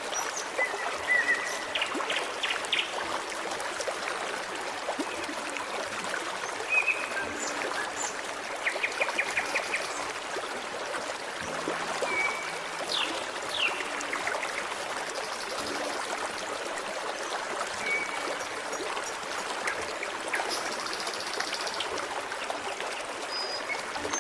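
Forest stream flowing steadily, with songbirds chirping and giving short rapid trills every few seconds over the water.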